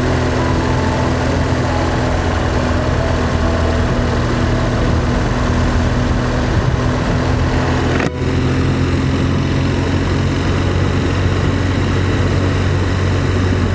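Motorcycle engine running steadily under way, with an even rush of wind and road noise. The sound drops out for an instant about eight seconds in, then carries on unchanged.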